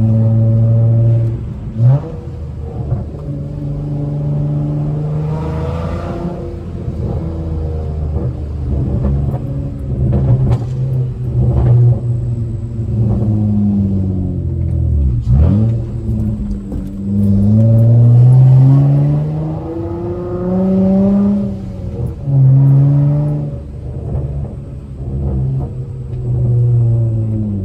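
Straight-piped Honda Accord V6 exhaust revving up and falling back through manual gear changes, with sharp exhaust pops and cracks as the revs drop.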